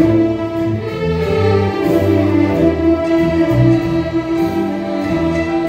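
Band music playing: a melody of long held notes over bass notes that change about once a second.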